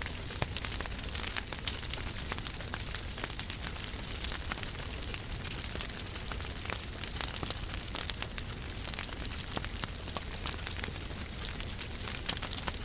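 Wood fire burning in a fireplace, crackling steadily with frequent small pops and a louder pop a little under two seconds in.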